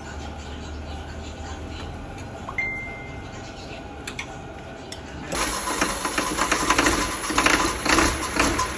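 A car engine, freshly repaired, starts abruptly about five seconds in and runs loudly with a rapid, uneven clatter. Before it starts there are a few small metallic clicks and one brief high beep.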